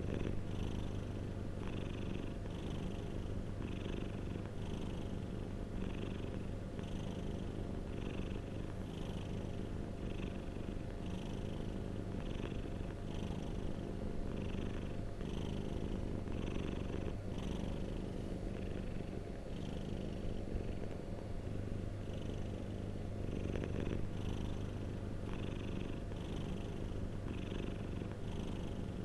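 Domestic cat purring steadily and close up, a continuous low rumble with a regular pulse a little more than once a second.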